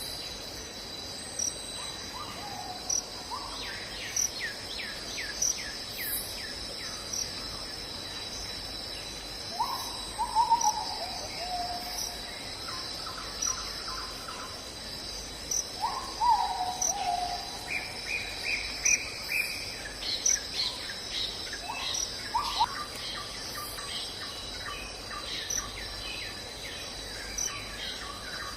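Night forest ambience: insects and crickets sing steadily in a high pitch. An animal call glides downward twice, and runs of quick high chirps come and go.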